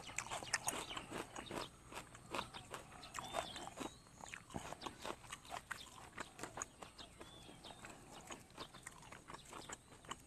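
Close-up mouth sounds of a man chewing a mouthful of food: soft wet clicks and smacks, thick in the first couple of seconds and sparser after. They are picked up by a lapel microphone on his chest.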